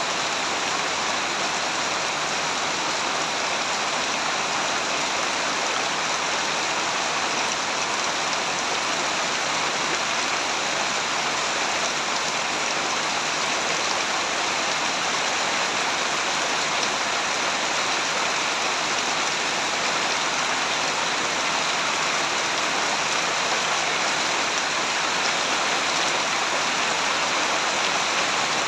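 Steady heavy rain falling, an even hiss of rain with no breaks.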